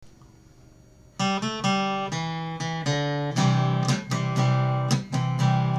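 Acoustic guitar strumming chords as a song intro, starting about a second in after a short quiet.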